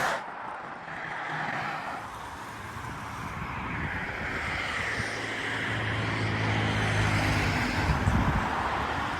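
Road traffic beside a walker: tyre and engine noise swelling as a motor vehicle approaches and passes, its engine hum loudest about seven to eight seconds in.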